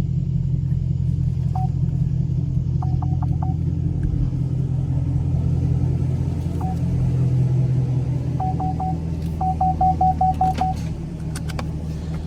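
Straight-piped 2017 Camaro SS's 6.2-litre LT1 V8 idling with a steady deep rumble, while the car's electronic warning chime beeps in short groups, the last a quick run of about seven beeps.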